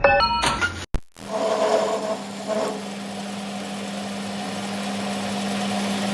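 A short musical jingle ends about a second in, then, after a brief cut, a workshop power tool or machine runs with a steady hum and a rubbing, grinding noise over it.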